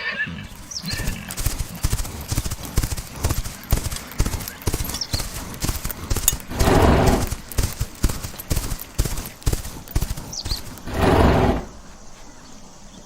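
Horses' hooves striking the ground in quick succession, with two loud, low horse calls, one about halfway through and one near the end.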